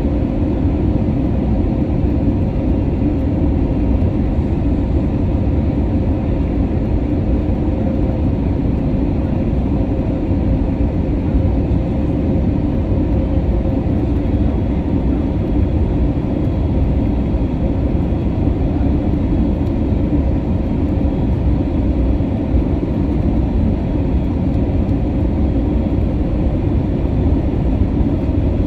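Steady cabin noise inside an Airbus A320neo: a deep, unbroken rumble of engines and airframe with a faint steady hum.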